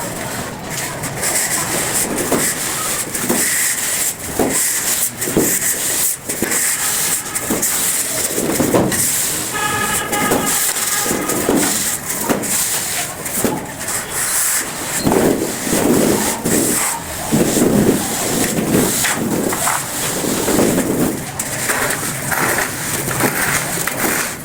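Cement plaster being worked by hand: a run of scraping strokes, roughly one a second, over a steady hiss, with a brief pitched sound about ten seconds in.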